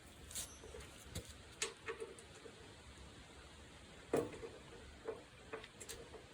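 Scattered light clicks and taps of parts and tools being handled during hand work, with a sharper knock about four seconds in.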